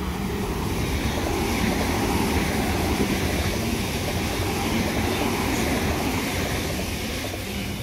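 Double-deck electric suburban train running through the station past the platform: a steady rumble and rush of wheels on rail that builds to its loudest in the middle and eases as the last cars go by.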